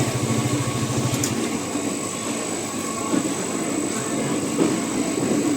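Busy market ambience. A low, steady, pulsing engine hum fades after about a second, leaving a continuous mix of indistinct background noise.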